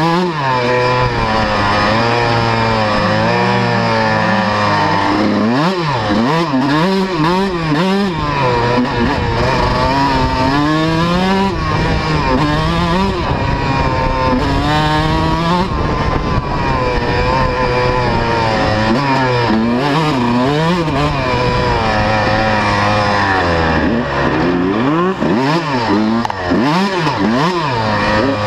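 125cc two-stroke motocross bikes riding and revving, the engine pitch climbing and dropping over and over as the throttle is worked. At times a second bike's engine can be heard at a different pitch.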